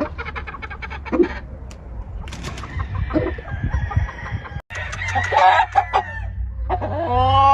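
Gamefowl roosters clucking, with one rooster crowing loudly near the end.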